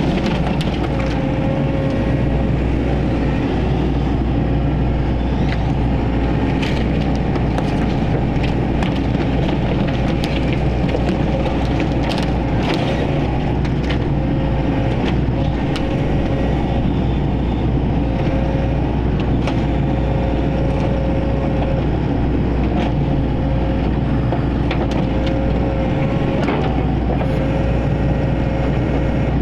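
A heavy diesel engine running steadily, with scattered short knocks and clanks over it.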